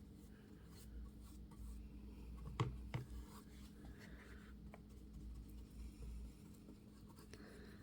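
Soft scratchy strokes of a brush spreading decoupage glue over a pallet-wood board, with two light knocks about two and a half to three seconds in. A steady low electrical hum runs underneath.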